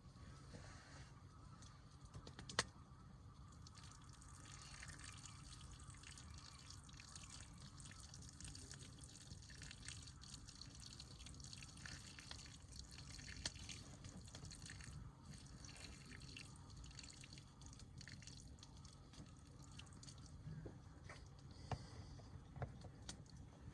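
Faint wood fire crackling: sparse small pops over a low steady background noise, with one sharper pop about two and a half seconds in.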